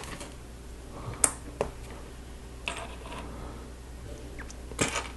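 Plastic Lego pieces being handled and pressed together: a few scattered sharp clicks, the loudest about a second in and another cluster near the end.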